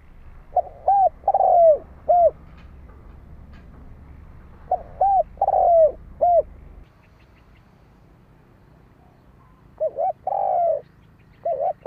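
Spotted dove cooing: three phrases of three or four arched coo notes, each with one longer, drawn-out note, a few seconds apart, and a fourth phrase beginning near the end.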